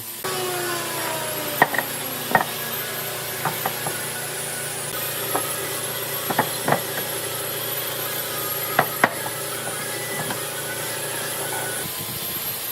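A workshop machine's motor running with a steady hum, its pitch settling downward in the first couple of seconds, while sharp knocks of wood ring out every few seconds.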